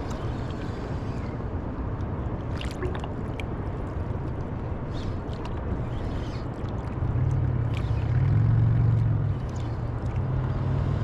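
Steady rush of ocean surf and wind around a surfboard, with scattered light clicks and splashes. A low rumble swells about seven seconds in, then eases off slightly.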